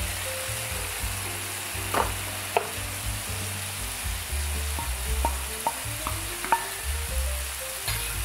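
Kimchi sizzling as it fries in a nonstick pan, stirred with a wooden spoon, with a few sharp knocks against the pan as cooked rice is tipped in and mixed through.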